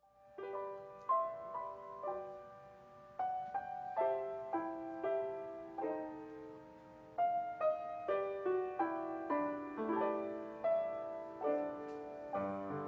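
Piano playing a slow, gentle piece, each note or chord struck and left to fade.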